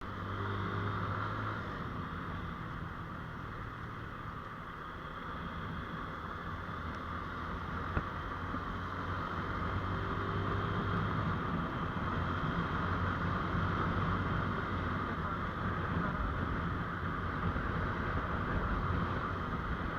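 GPX Demon GR200R motorcycle riding along, its engine running under a steady rush of wind and tyre noise. The engine hum stands out in the first couple of seconds and again in the middle, and there is a single brief knock about 8 seconds in.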